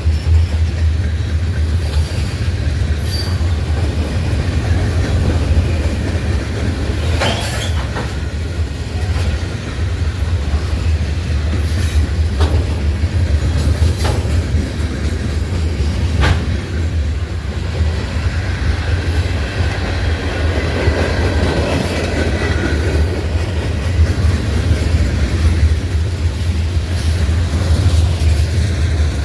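Norfolk Southern train cars rolling past with a steady heavy rumble, scattered sharp clanks and, now and then, a faint wheel squeal.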